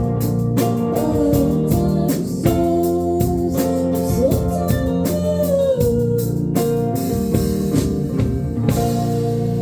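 Live band playing an instrumental passage: gliding, bending melody notes over sustained chords and a steady beat of drum hits. The hits stop near the end, leaving a held chord ringing.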